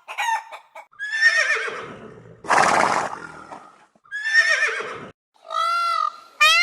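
A horse whinnying twice, each a wavering call with a falling pitch, with a short harsh noisy burst between the two.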